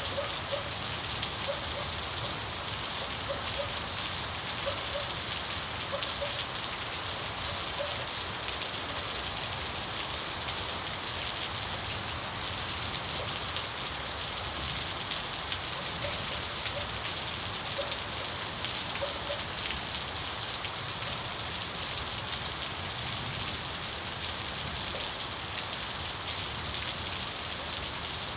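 Steady rain falling, a dense even patter of drops with no thunder. Faint short chirps come through the rain, some in pairs, in the first few seconds and again a little past the middle.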